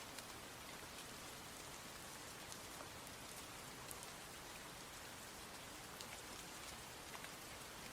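Steady rain falling: an even hiss with individual drops ticking here and there.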